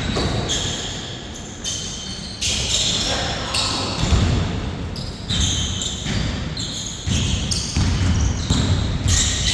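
A basketball being dribbled and bouncing on a hard court during a game, a run of repeated thuds with the echo of a large hall.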